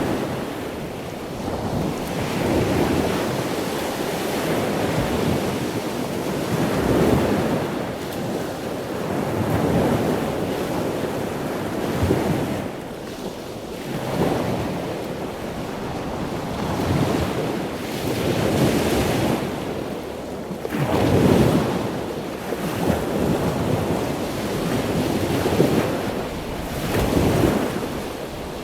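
Ocean waves breaking and washing in, a steady rush of surf that swells and falls back every few seconds.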